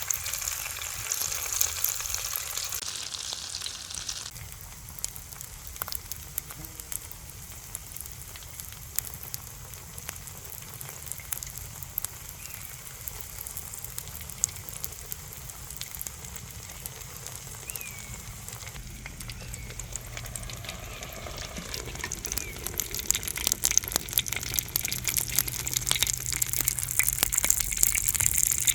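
Food sizzling in a frying pan over a campfire. The sizzle is strong for the first few seconds, drops suddenly to a quieter hiss with scattered pops and crackles, and grows louder again near the end.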